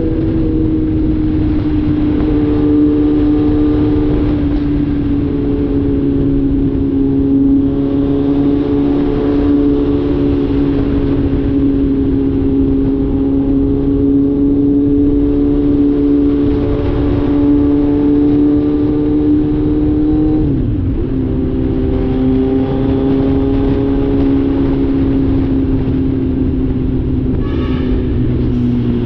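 Kawasaki Z900 inline-four engine with its catalytic converter removed, running at a steady cruise with the exhaust note slowly sagging in pitch. About two-thirds through, the note drops sharply and picks up again a little lower, as in a quick gear change, and it does the same once more right at the end.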